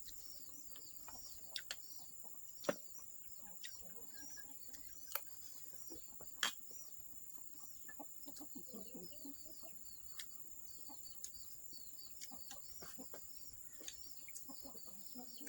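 Faint rapid chirping of birds or chicks, nearly continuous, over a steady high-pitched insect drone, with scattered sharp clicks and snaps, the loudest about a third of the way in and again just before halfway.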